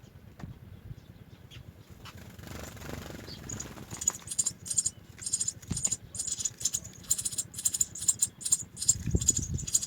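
House sparrow nestlings begging with rapid, high-pitched cheeping, starting about four seconds in, as they are fed. There are a few low thumps among the cheeps.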